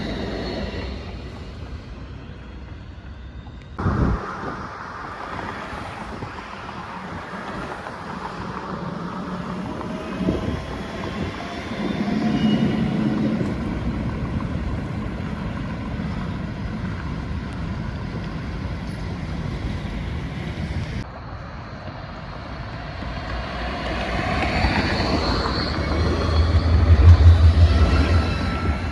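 Trams running in on the rails, their electric motors whining in tones that glide up and down. The loudest pass, with a heavy low hum, comes near the end. The sound changes abruptly twice, where separate clips are cut together.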